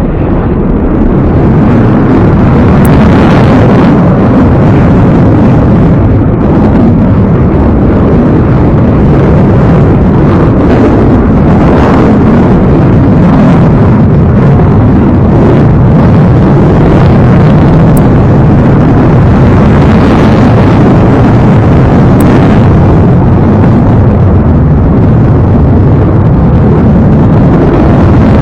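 F-22 Raptor's jet engines, a loud, steady, deep roar of a fighter jet in flight that swells over the first second or two and then holds.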